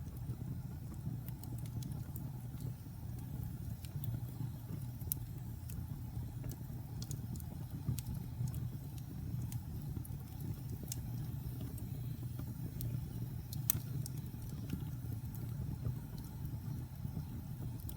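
Wood fire burning in a fireplace: a steady low rumble of flames with scattered sharp crackles and pops, one louder snap about fourteen seconds in.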